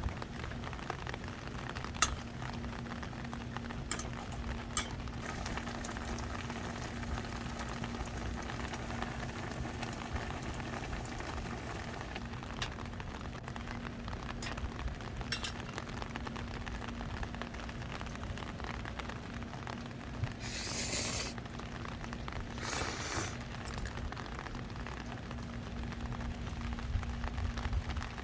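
Steady rain hiss with a low steady hum under it. A few sharp clicks are scattered through, and two short rustling bursts come about two-thirds of the way in.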